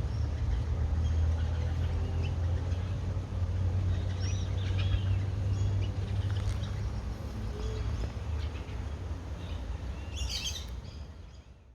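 Birds chirping in short scattered calls over a steady low rumble, with a brief burst of calls about ten seconds in; the sound fades out near the end.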